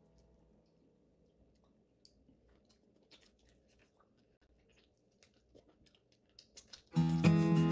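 Faint chewing of deep-fried chicken feet: soft, scattered crunches and clicks. Near the end, guitar music starts suddenly and is much louder than the eating.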